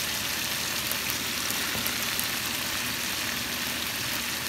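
Boneless chicken thigh pieces and freshly added sliced red pepper sizzling steadily in an oiled frying pan, with a few faint crackles.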